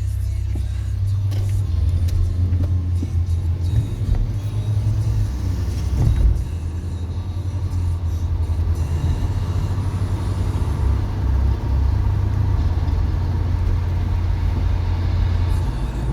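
Car driving at road speed: a steady low rumble of engine and tyres, with a brief thump about six seconds in.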